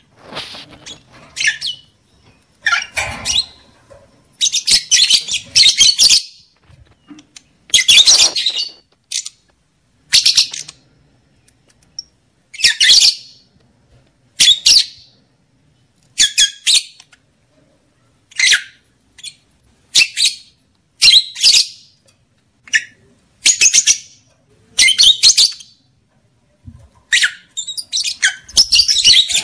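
Lovebirds giving shrill, harsh, squawking calls in short bursts about every one to two seconds. These are the calls used as a lure to bring lovebirds into breeding condition.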